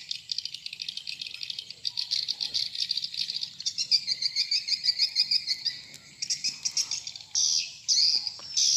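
Swiftlets twittering: a dense, continuous run of rapid high chirps, with louder clusters in the second half. This is the kind of swiftlet call sound played to draw swiftlets into a swiftlet house.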